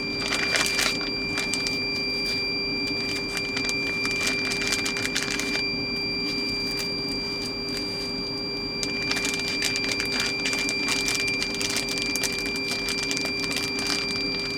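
Plastic packaging and zip-top freezer bags crinkling and rustling as they are handled, in clusters of fine crackles with a quieter stretch in the middle, over a steady electrical hum.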